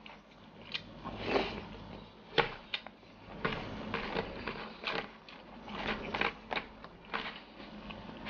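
Close-up crunchy chewing of crispy fried anchovies, with irregular sharp crackles and clicks as fingers pick the pieces off a plastic tray, and a few louder crunches.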